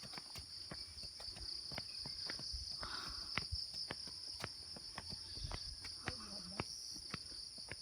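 Insects, crickets or cicadas, calling in two steady high tones, with irregular faint clicks of footsteps on the trail.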